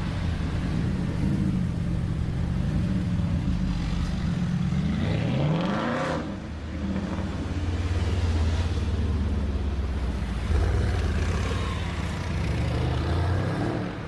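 Mercedes-AMG car's engine and exhaust accelerating: the engine note climbs sharply about five seconds in, drops at about six seconds, then holds a steady low drone until it falls away near the end.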